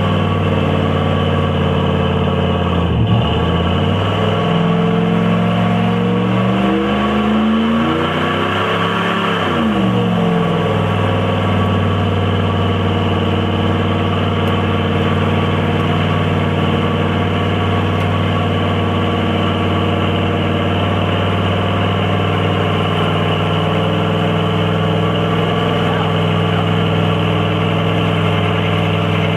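Vehicle engine revving up and down several times, then settling about ten seconds in into a steady, even run.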